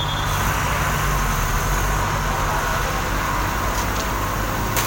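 Heavy engine running steadily with a low hum, typical of the machinery working to haul out a crashed truck. There is a brief high note right at the start and a couple of sharp clicks near the end.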